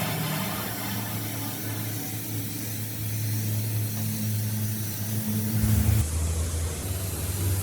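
A motor running steadily with a low hum, its pitch dropping a little about six seconds in.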